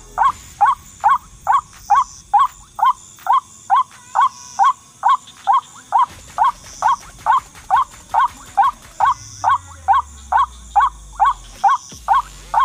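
White-breasted waterhen (ruak-ruak) call played through a loudspeaker as a lure: a short, rising note near 1 kHz repeated at a steady, machine-even pace of a little over two a second.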